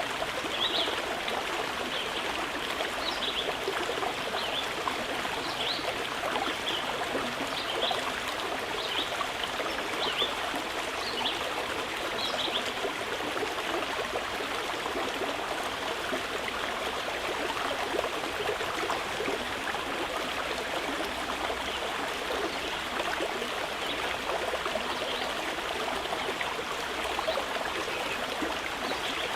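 Mountain river flowing steadily, with short high bird chirps repeated over it, frequent in the first half and sparser later.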